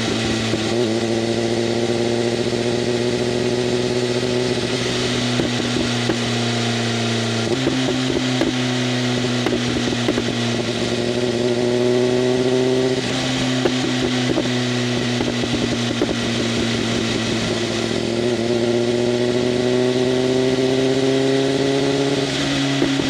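BMW M1000RR's inline-four engine through an SC-Project CRT exhaust with its flaps open, running under a steady light throttle. The engine note climbs slowly and drops at a gear change about a third of the way in, again around halfway, and near the end.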